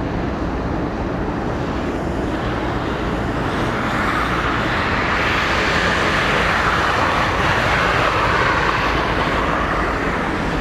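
Jet airliner engines, a broad rushing noise that swells from about four seconds in, is loudest a few seconds later and eases slightly near the end.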